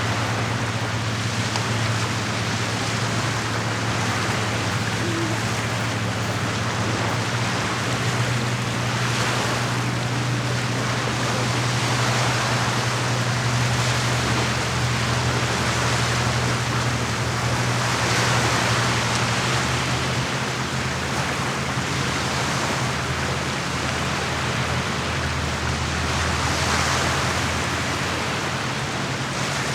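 Small lake waves lapping at the shore, a steady wash that swells every four to five seconds, over a steady low hum.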